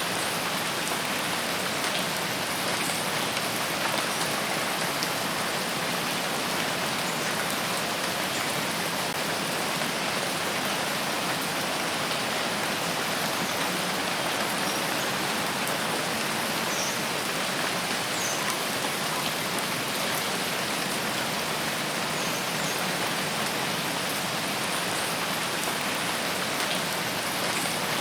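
Steady rain falling in a rain forest, an even hiss of many drops with no let-up. A few faint, short high chirps sit above the rain.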